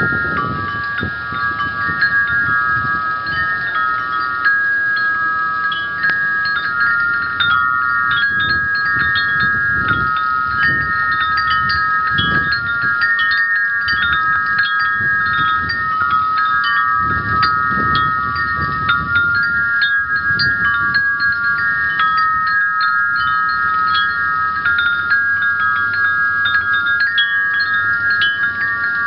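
Metal wind chimes ringing steadily as the wind keeps striking them, several long notes overlapping and re-sounding irregularly. Gusts of wind rumble underneath.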